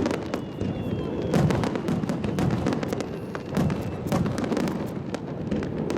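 Aerial fireworks going off in quick succession: deep booms with many sharp crackles and pops.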